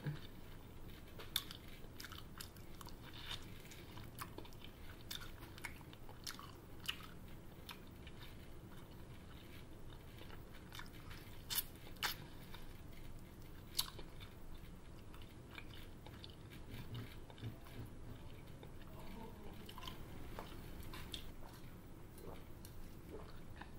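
A person eating chicken wings close to the microphone: quiet chewing and biting, with scattered short crunches and clicks.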